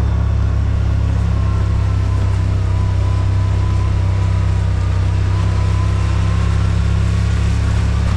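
Side-by-side UTV engine running steadily while driving, a deep drone with a faint whine drifting slightly up and down in pitch.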